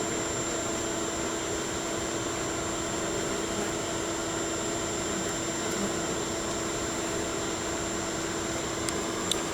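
A feral honeybee colony buzzing steadily around an opened tree nest, a dense hum with one held low tone.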